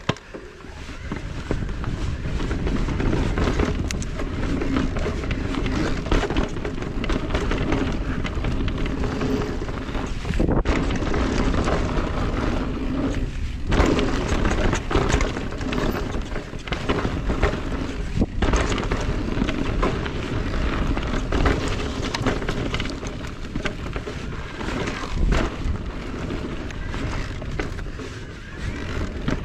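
Mountain bike rolling fast over rough trail: continuous tyre rumble and wind noise, with frequent sharp knocks and rattles from the bike over rocks and roots.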